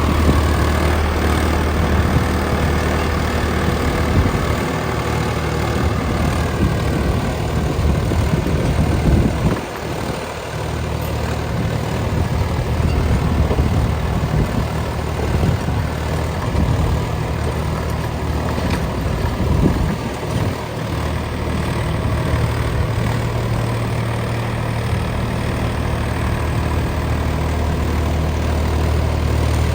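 Swaraj 963 4x4 tractor's diesel engine running steadily while it drives a Swaraj Gyrovator rotary tiller, with a steady low hum and a dense rumble. The sound eases briefly twice.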